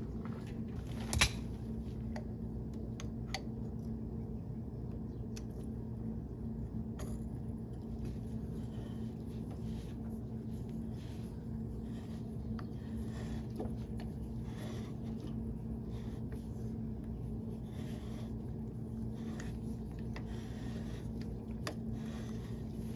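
Scattered light clicks and taps of hand tools and metal parts over a steady low hum, with one sharp click about a second in.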